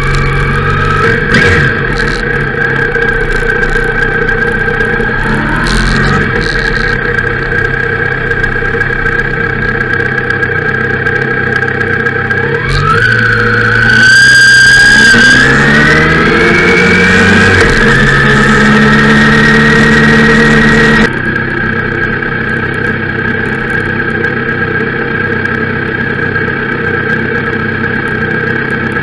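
Motorcycle engine running, heard from a camera mounted on the bike, rising in pitch as it accelerates about halfway through; the sound changes abruptly about two-thirds of the way in.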